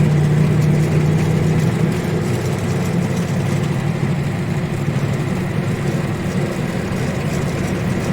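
ZIL-130 truck's V8 petrol engine running steadily as the laden truck drives along the road. It is a low drone that eases slightly about two seconds in, over a steady haze of road noise.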